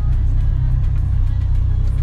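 Steady, loud engine and road rumble heard from inside an off-road 4x4's cabin as it drives along a dirt track.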